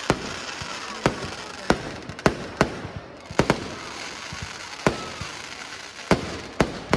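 Fireworks going off: about a dozen sharp bangs at irregular intervals, some in quick pairs, over continuous crackling.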